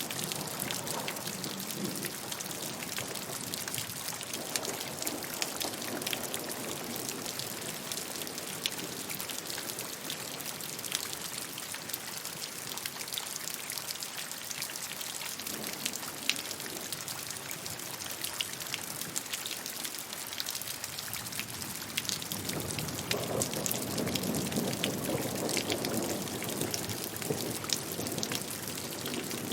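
Steady rainfall with many distinct, sharp drop hits over an even hiss; a fuller, lower wash of heavier rain builds up about two-thirds of the way through.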